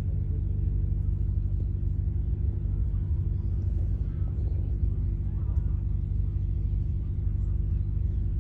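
An engine running at a steady speed: a low, even rumble with a steady hum.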